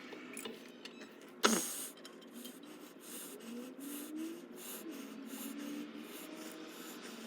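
Rubbing and scraping from work on a toilet during a wax ring change, with one sharp knock about one and a half seconds in and a few short squeaks.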